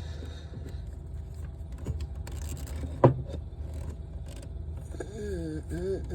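Hand tools clinking and knocking on metal parts of a compact loader, with a few light clicks, a brief scrape, and one sharp clank about three seconds in.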